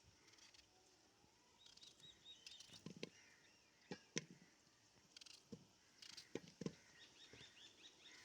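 Faint birds chirping in short warbling phrases, with a few soft knocks in between.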